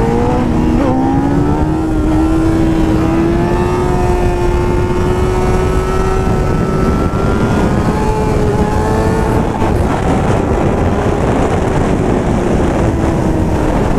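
Sport motorcycle engine pulling steadily in gear. Its note climbs slowly for several seconds and then eases off, under heavy wind rumble on the helmet microphone.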